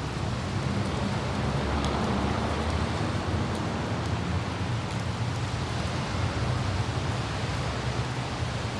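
Light rain falling, with a few faint droplet ticks, over a steady low rumble of city traffic and wind.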